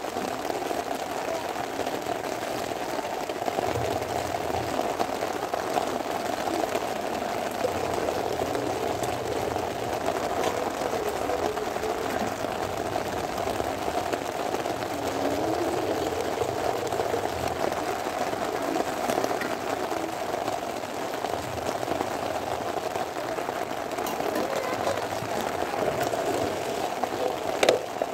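Steady rain pattering on plastic sheeting, a constant dense patter, with one sharp knock near the end.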